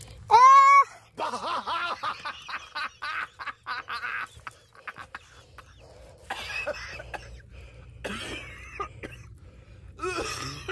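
A hiker's voice: a loud short cry about half a second in, then a quick string of short voiced breaths and effort noises while hauling herself up a steep, rope-assisted slope, with a few more brief vocal sounds later.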